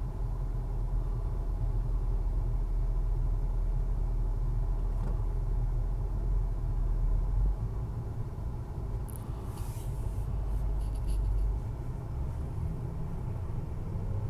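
Motorcycle running on the road as it is ridden, with a heavy low wind rumble; the deepest rumble eases about halfway through, and a few faint ticks come near two-thirds in.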